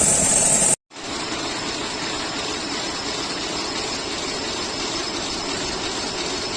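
A loud hiss that cuts off abruptly under a second in, then, after a brief silence, a steady, even mechanical drone.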